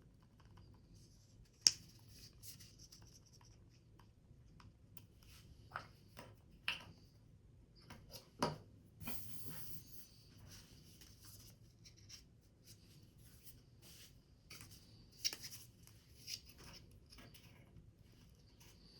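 Paper and card being handled and cut at a workbench: scattered sharp snips and taps with short rustles. The sharpest click comes about two seconds in, with a longer rustle around the middle.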